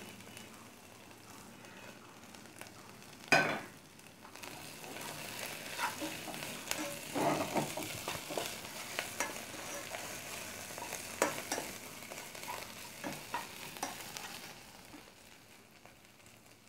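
Onion paste with ginger and garlic frying in oil in a pan, a faint steady sizzle, with a spoon stirring and scraping against the pan. There is one sharp knock about three seconds in, and the sizzle thins near the end.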